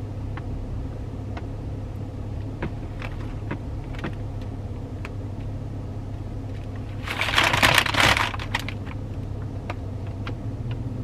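Steady low hum of a parked car running with its air conditioning on, with scattered light clicks and taps from handling things in the car, and a louder burst of handling noise about seven seconds in.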